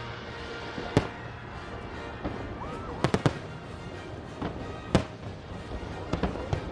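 Fireworks display: sharp aerial shell bursts going off every second or two, some in quick pairs, over a steady bed of music.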